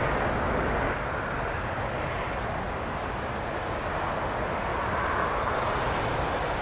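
Airbus A380's jet engines running at low taxi power: a steady rushing rumble that grows slightly louder near the end.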